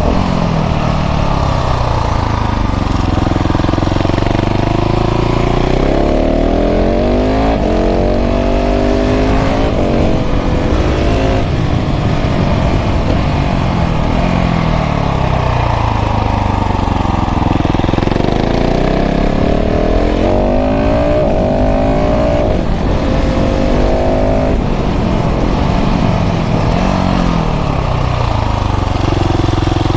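KTM 690 SMC R's single-cylinder LC4 engine through a full LeoVince exhaust, pulling up through the gears and dropping back on closed throttle several times over.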